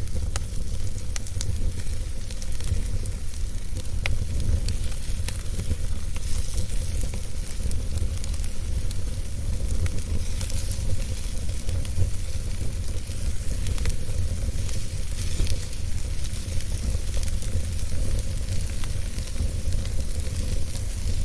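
Wood fire burning in a fireplace: a steady low rumble of flames with frequent small crackles and occasional sharper pops from the burning wood.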